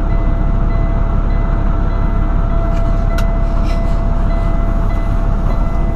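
Semi truck diesel engine idling steadily just after start-up, with a steady high-pitched tone sounding over it.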